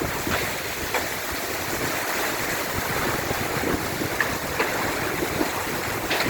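Heavy rain pouring steadily, with a few scattered sharp taps of small hailstones striking.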